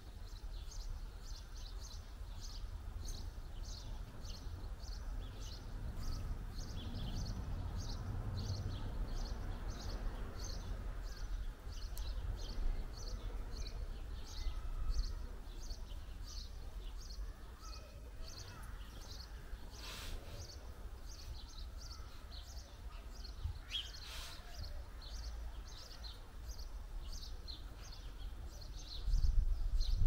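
A small garden bird chirping over and over, about two short high chirps a second, over a low outdoor rumble that grows louder just before the end.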